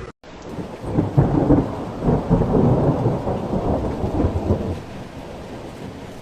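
Heavy rainstorm noise: steady rain, with a loud, uneven low rumble from about one to nearly five seconds in, after which it settles back to a steady rain hiss.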